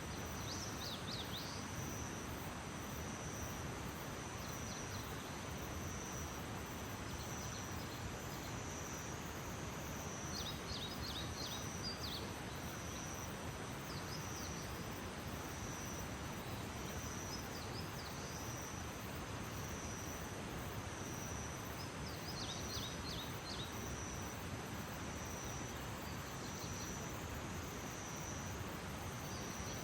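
Outdoor nature ambience: an insect's high trill pulsing evenly about once a second over a steady background hiss, with short clusters of quick chirps, likely birds, breaking in now and then, most clearly around the middle and about three-quarters of the way through.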